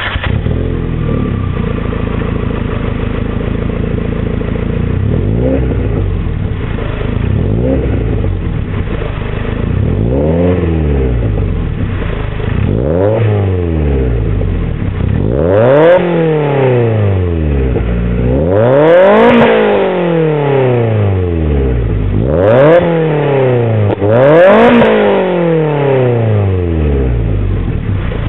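Exhaust of an NA6 Mazda Roadster's 1.6-litre four-cylinder through a JoyFast Innovation 48 mm aftermarket muffler: idling for about five seconds, then revved up and let fall back about nine times, the later revs higher and longer.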